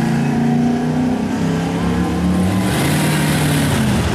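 Car engines running as cars drive past in a parade, their exhaust note shifting up and down in pitch. A brief rush of noise comes in about three seconds in.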